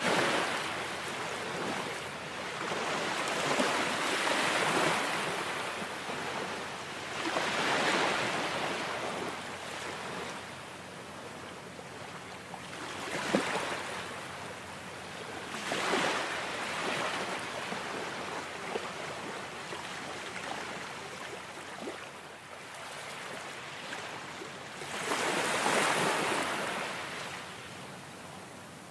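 Ocean surf: waves swelling and breaking at irregular intervals of a few seconds, with a steady wash of water between them.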